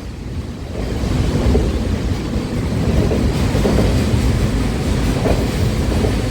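Freight train of loaded autorack cars rolling past, a steady noise of steel wheels on rail that is strongest in the low end.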